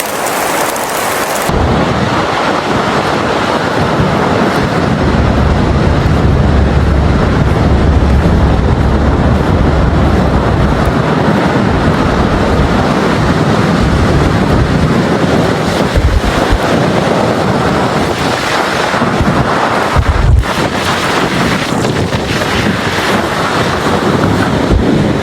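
Strong wind buffeting the microphone: a loud, rough rushing noise with gusty low rumbles. A brighter steady hiss at the start cuts off abruptly about a second and a half in.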